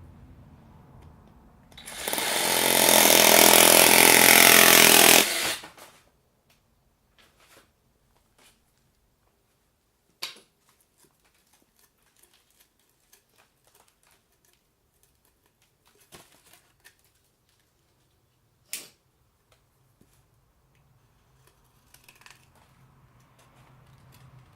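A power tool runs loud and steady for about three and a half seconds, then stops, followed by a few sharp knocks.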